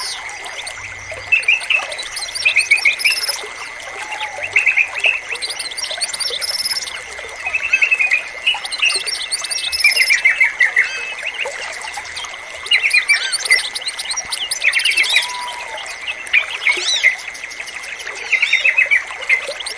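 Yellow-vented bulbul song: short, bubbly warbled phrases repeated every second or two, over a steady thin high tone.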